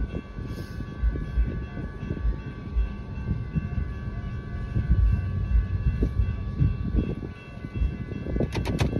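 Freight train of autorack cars rolling past a grade crossing: an uneven low rumble and clatter of wheels on the rails, heard from inside a car, with steady high tones over it. A quick run of sharp clicks comes near the end.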